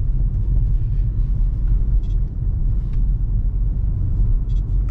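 Dodge Scat Pack's 6.4-litre HEMI V8 cruising at low speed, a steady low engine and exhaust rumble heard through an open side window.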